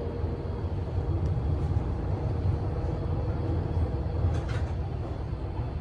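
Docklands Light Railway train running, heard from inside the carriage: a steady low rumble of wheels on the track. A faint motor hum fades out about two seconds in, and a couple of light clicks come a little past the middle.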